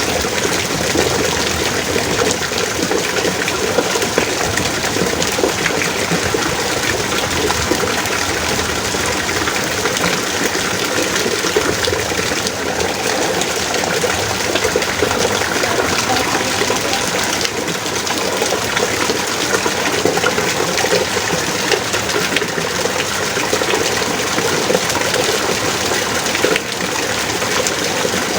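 Heavy rain pouring down steadily as a dense, even rush of water.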